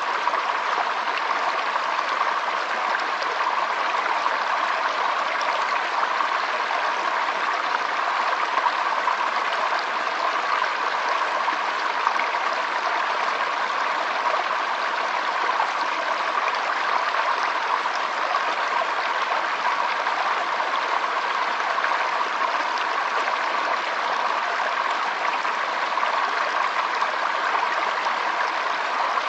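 Stream water flowing steadily, an even, unbroken rush of moving water.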